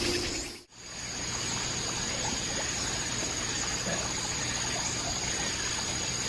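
Water trickling steadily, with a constant high-pitched insect drone over it, after a sudden cut about half a second in.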